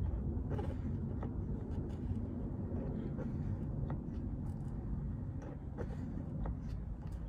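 Small hand pump for marine gear oil being worked slowly, giving faint irregular clicks about once or twice a second over a steady low rumble.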